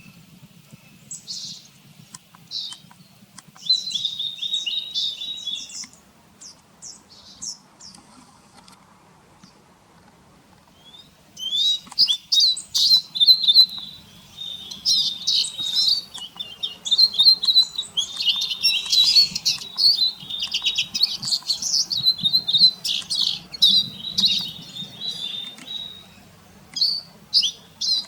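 Eurasian siskin twittering: quick high chirps and trills in bursts, sparse at first with a pause a third of the way in, then a dense run of twittering through the rest.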